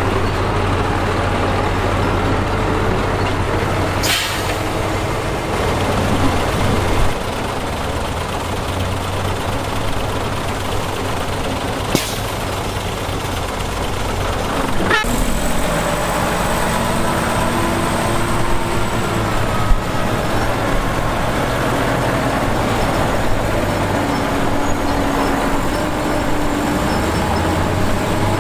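Heavy diesel construction machinery, a crawler bulldozer and dump trucks, running steadily, with a short sharp hiss about four seconds in and another about twelve seconds in.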